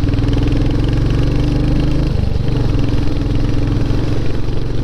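Motorcycle engine running steadily while riding, with a short break in its note about two seconds in.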